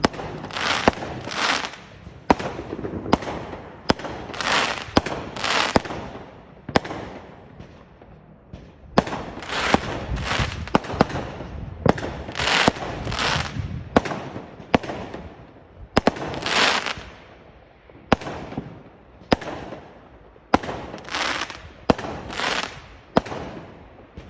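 Fireworks going off one after another: many sharp bangs mixed with short hissing, crackling bursts.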